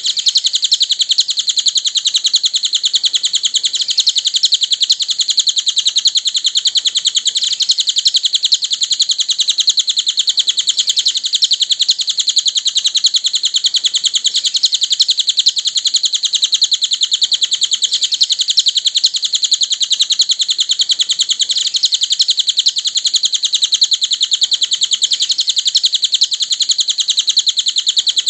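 A cililin bird singing one continuous, very fast high-pitched trill, without a break.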